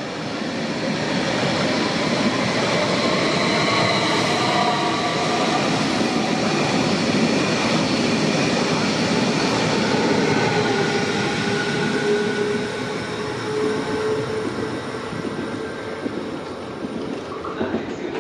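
TILO electric passenger train passing along the station platform: a steady rush of wheels on rails that swells to a peak about midway and then eases off as the last car goes by, with thin whining tones in the later part.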